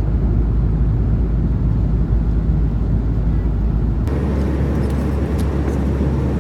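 Steady low rumble of a jet airliner's cabin in flight: engine and airflow noise. The tone of the hum changes abruptly about four seconds in.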